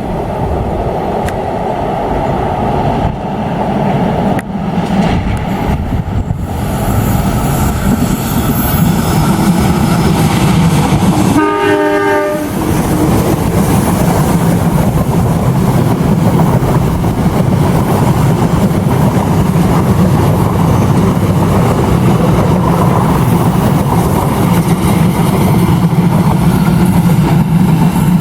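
Diesel locomotive hauling a train past close by, its engine running loud and steady and growing louder as it approaches. It sounds one short horn blast a little under halfway through.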